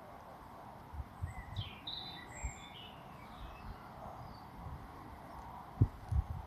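Faint high chirps and peeping calls from small birds, a cluster of them from about one to three and a half seconds in, over a quiet outdoor background with a few soft low thumps.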